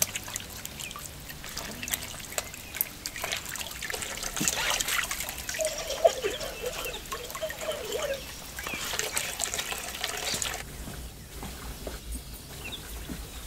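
Rain falling, with water trickling and dripping in many small ticks. It turns softer about three quarters of the way through.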